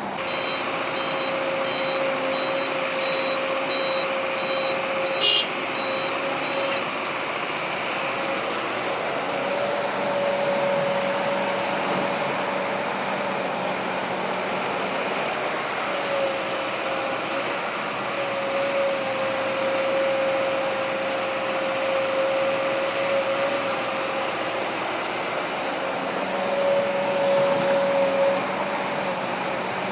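Diesel engines of a working excavator and dump truck, running steadily with a tone that rises and dips now and then. A repeating electronic beep sounds through the first seven seconds or so, and there is a single sharp click about five seconds in.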